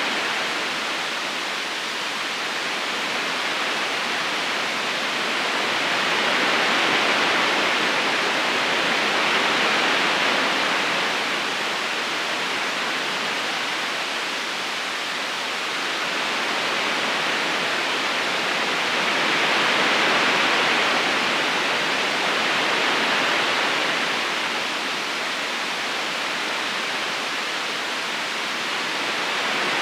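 River current flowing steadily over stones, a continuous rush of water that swells gently and eases again every ten seconds or so.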